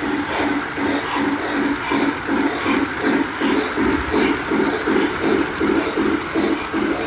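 Toy electric Christmas trains running on their track, making a steady rhythmic clatter of about three to four beats a second.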